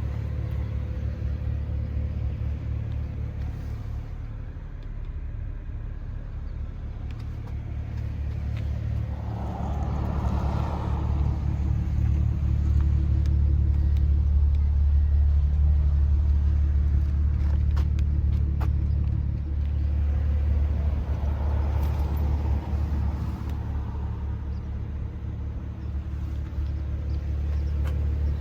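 The 2010 BMW 135i's twin-turbo inline-six running steadily with a low rumble, no revving. It grows louder from about eight seconds in, stays loud through the middle and eases off again later.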